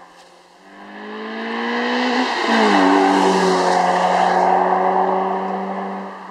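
Car exhaust through a prototype Suruga Speed dual centre pipe and loop-sound muffler: the engine accelerates with rising pitch, shifts up once about two and a half seconds in, then pulls on at a steady note as the sound swells and fades away.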